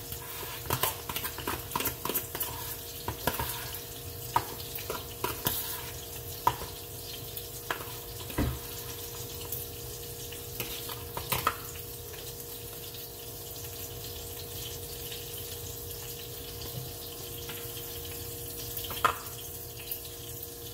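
Turkey burger patties frying in hot ghee in a pan: a steady sizzle with sharp crackles and pops, busiest in the first dozen seconds, over a steady low hum.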